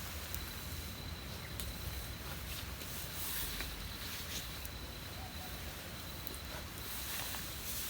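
Outdoor natural ambience: a thin, steady high tone over a low rumble, with scattered light clicks.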